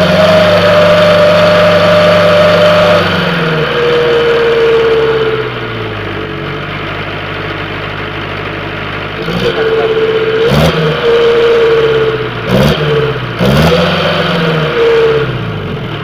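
Car engine revved through a homemade 'wolf' exhaust, with a steady howling tone riding over the engine note whenever the revs are up. It is held high for about three seconds, drops to idle, then gets three short blips near the end. The builder himself calls the howl not yet satisfactory on this non-turbo engine.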